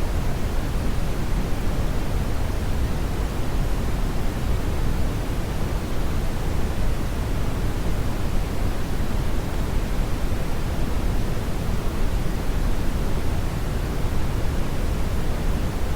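Steady, loud brown noise: a constant deep rumbling hiss, strongest in the bass and thinning toward the treble, with no changes.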